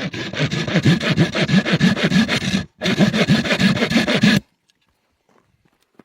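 Saw cutting through wood with quick back-and-forth strokes, in two spells with a brief pause between them, stopping about four and a half seconds in.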